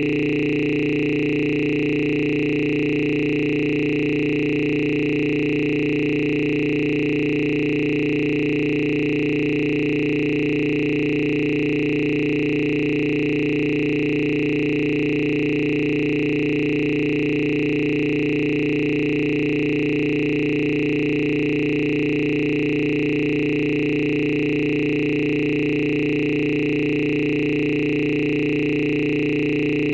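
A loud, steady electronic tone made of several fixed pitches held together without any change, like a sustained synthesizer drone or test tone.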